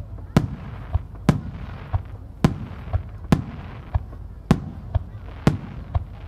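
Large Japanese aerial firework shells (10-gō and 5-gō) bursting in steady succession. There is about one loud bang a second, with fainter thumps in between.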